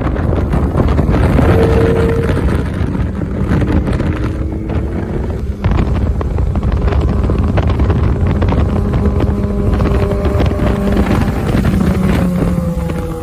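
Kawasaki ZX6R's inline-four engine running while riding, buried in heavy wind rumble on the microphone.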